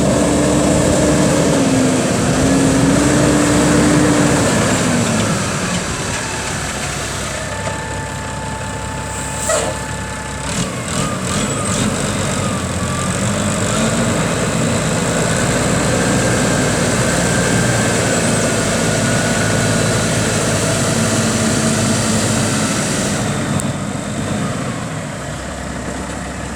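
1994 Ford LNT9000 truck tractor's diesel engine running. Its pitch rises and falls over the first few seconds, then it settles to a steady idle. A few sharp clicks come about ten seconds in.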